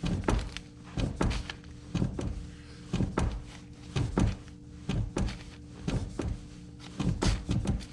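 A car's brake pedal being pumped to build pressure for bleeding the brakes, giving a thunk about once a second, eight in all.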